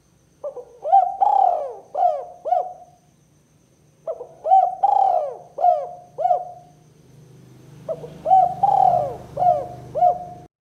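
Spotted dove (tekukur) cooing: three phrases of about five coo notes each, one every three and a half seconds or so.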